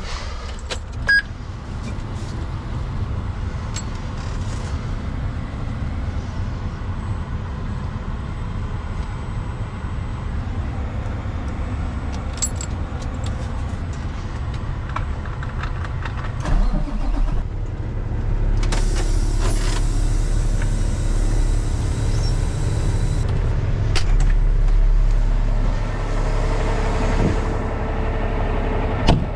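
A vehicle engine running steadily, with scattered clicks and knocks. It grows louder about halfway through, and a loud hiss joins for about four seconds.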